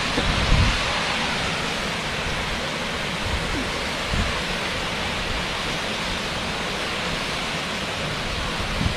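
Waterfall rushing in a steady, even wash of falling water, with a few brief low thuds on the microphone.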